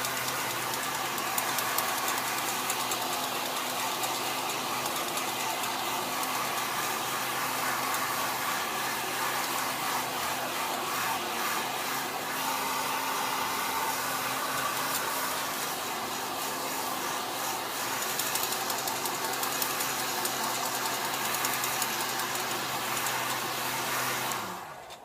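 Heat gun blowing steadily, warming the seat vinyl so it can be stretched; near the end it is switched off and its fan winds down.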